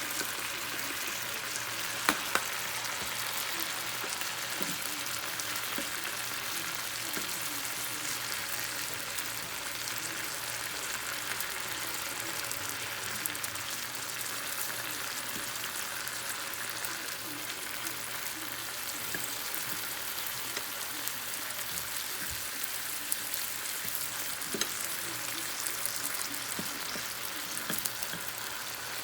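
Thin chicken slices frying in olive oil in a pan, a steady sizzle, with a sharp click about two seconds in and a few faint taps later.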